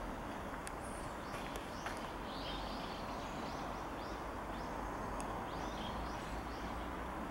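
Small birds calling with short, repeated chirps over a steady outdoor hiss.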